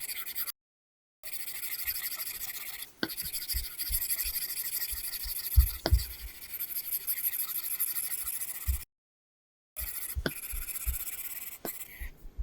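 Apple Pencil tip scratching across an iPad screen fitted with a paper-texture film, in continuous drawing strokes with a few light taps of the nib. The sound cuts out completely twice for about a second.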